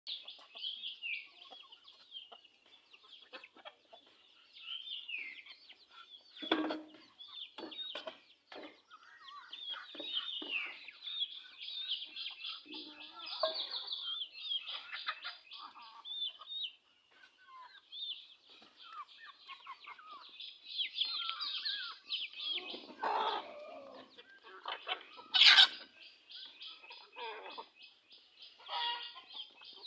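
A flock of native (deshi) chickens calling: a constant chorus of short high peeping calls with lower clucks mixed in. A sharp knock comes about 25 seconds in.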